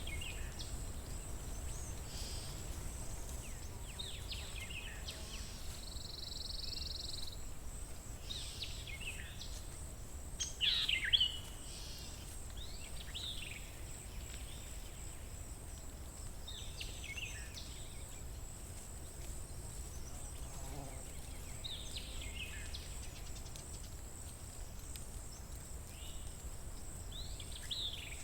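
Wild birds singing and calling in short, scattered phrases, the loudest about ten seconds in, over a steady low outdoor rumble and a thin steady high hiss.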